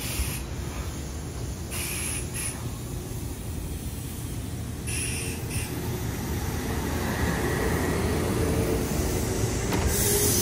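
Red-and-white Kintetsu electric train rolling past close by at low speed: a steady rumble of wheels and running gear that grows louder as it draws alongside, with a steady hum joining about halfway through. Two short hisses come in the first half.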